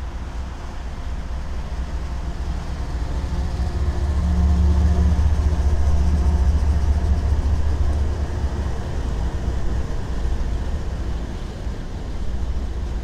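Several BNSF diesel-electric freight locomotives passing close by, their engines giving a loud low rumble that is loudest about four to eight seconds in as the units go past, then eases.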